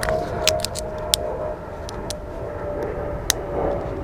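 Wind rumbling on the microphone under a steady, even hum of a distant engine, with several sharp clicks of handling.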